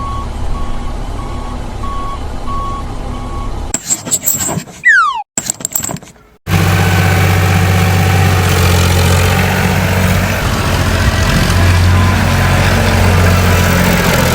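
A vehicle engine running, with a short beep repeating about twice a second, like a reversing alarm. A quick falling whistle-like glide follows, then a louder, steady engine drone takes over and holds.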